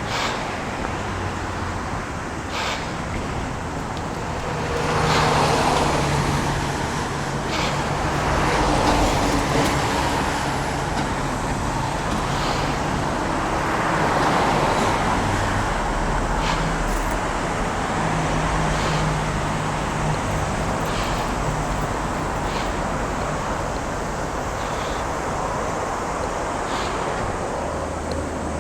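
Road traffic: a steady wash of vehicle noise with cars passing, swelling loudest about five seconds in, again around nine and fourteen seconds, and engine hum in the background.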